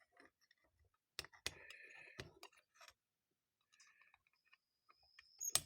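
Small metal carburetor parts being handled and fitted together, giving faint scattered clicks and taps, with one sharper click near the end.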